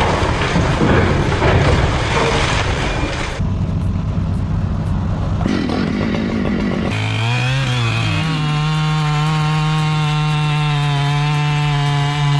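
Chainsaw work: a rough, noisy cutting sound that changes abruptly twice. About seven seconds in, a two-stroke chainsaw engine dips and picks up again, then holds a steady high-revving whine, which the narration that follows ties to a Husqvarna 592 XP.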